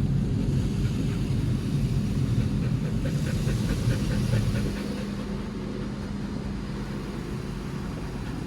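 Automatic car wash machinery running, heard from inside the car: a steady low rumble and hum, louder in the first half, with a quick run of faint ticks around the middle.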